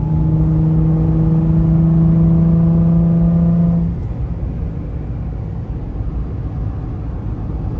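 Car engine droning under way, a steady tone creeping slightly up in pitch, which drops away about four seconds in, leaving a low road rumble.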